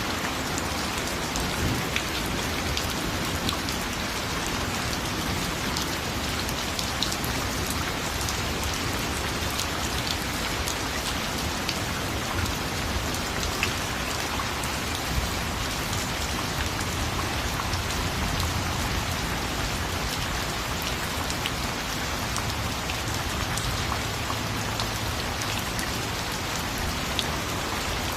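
Steady rain falling, an even hiss with many distinct drops pattering on a surface.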